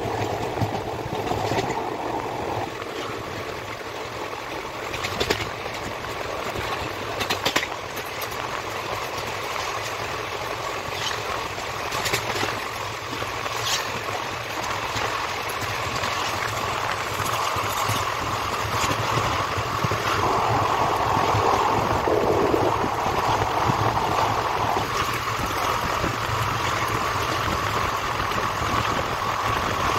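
Moving passenger train coach heard from its open doorway: steady rumble of wheels on the track mixed with rushing air, with a few sharp knocks in the first half and a louder run in the second half.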